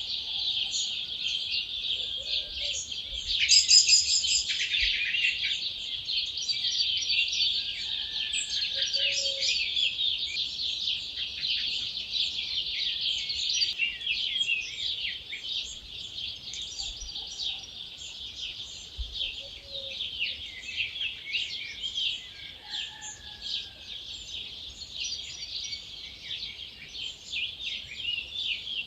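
Dawn chorus: many wild birds singing at once, a dense, continuous mix of high chirps and trills, with one louder burst of song about four seconds in.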